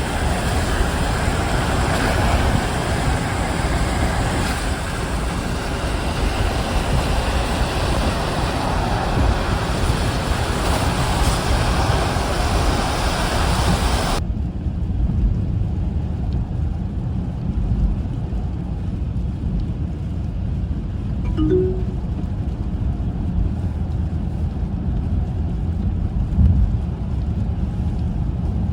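Steady rumble and road noise of a moving vehicle heard from inside. A loud hiss over the rumble cuts off abruptly about fourteen seconds in, leaving mainly the low rumble.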